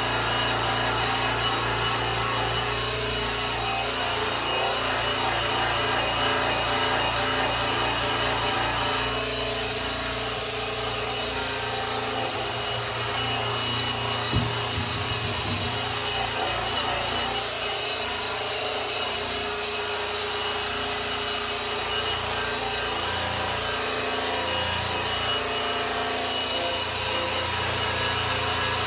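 Electric polisher buffing the finish of a grand piano: a steady motor hum with the pad rubbing across the surface, plus one brief knock about halfway through.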